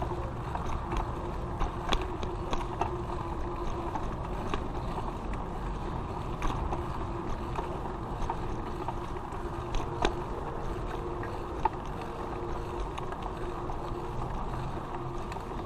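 Bicycle rolling along a paved street: a steady rolling hum with scattered clicks and rattles from the bike.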